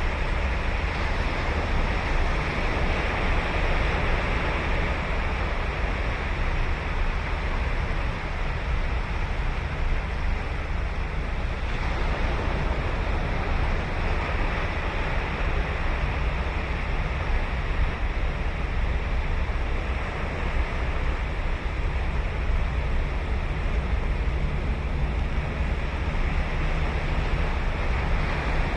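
Ocean surf washing steadily onto a sandy beach, a continuous rushing of breaking waves with no single crash standing out.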